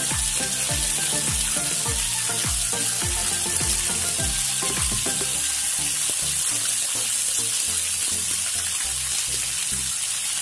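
Onions, tomatoes and green chillies frying in oil in a frying pan, a steady sizzle.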